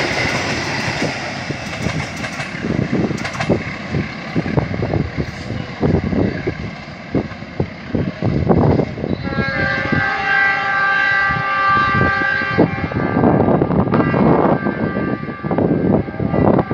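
Rail passenger train rolling past on steel wheels and fading into the distance, hauled by a CC206 diesel-electric locomotive. About ten seconds in, its horn sounds one held chord of several notes for about three seconds. Wind buffets the microphone in gusts near the end.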